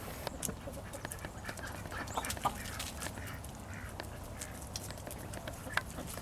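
Poultry calling softly in short, scattered calls, with light clicks throughout.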